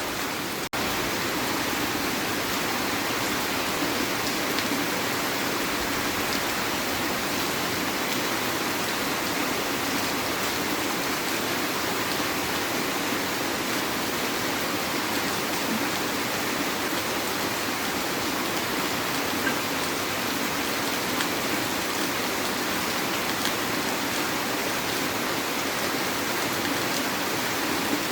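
Heavy rain falling steadily, an even hiss with no thunder, broken by a momentary dip under a second in.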